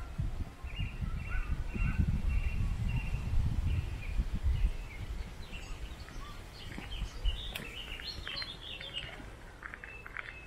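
Several wild birds singing and calling outdoors: a short phrase repeated several times at first, then a busier mix of chirps in the second half. Under it runs an uneven low rumble, strongest in the first half.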